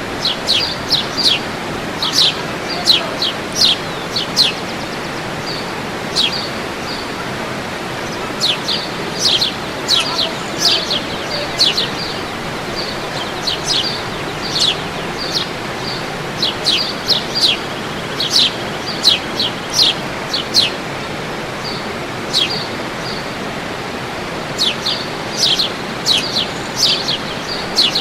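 Birds chirping in quick runs of short, high notes that fall in pitch, over the steady rush of a waterfall.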